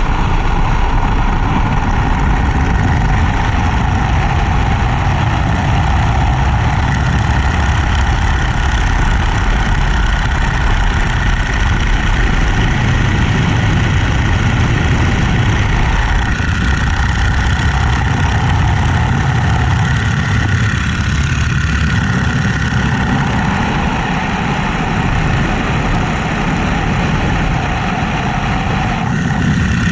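Boeing-Stearman Model 75 biplane's radial engine running in flight with a rush of air noise. The engine note shifts and the sound eases slightly past the middle before picking up again near the end.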